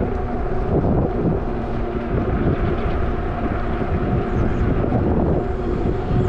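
Zota Zephyr fat-tyre folding e-bike being ridden: wind rumbles over the bike-mounted microphone, over a steady hum from the moving bike.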